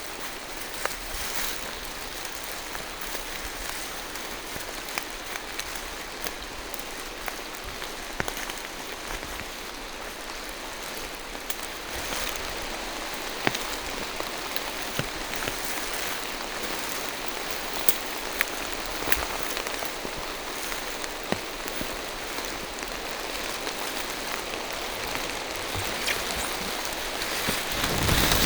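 Steady rain falling through forest trees, with many separate close drops ticking sharply on top of the hiss. A brief louder rush comes near the end.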